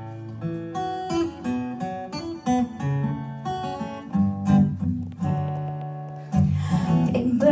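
Acoustic guitar playing the intro of a song: a run of single picked notes, getting fuller and louder about six seconds in as chords are strummed.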